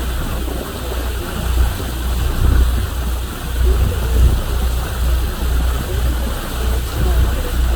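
Wind buffeting the microphone in uneven low gusts over the steady rush of water and engine noise of a sightseeing boat under way.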